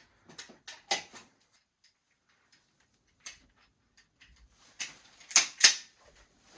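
Scattered sharp clicks and knocks of hand work, the loudest a pair of sharp clacks close together about five and a half seconds in.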